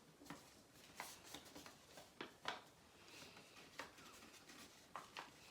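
Faint, scattered rustles and crinkles of paper being handled and folded, in short irregular ticks.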